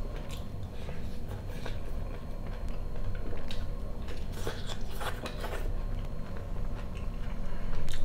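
A person chewing food close to the microphone, with irregular short wet mouth clicks.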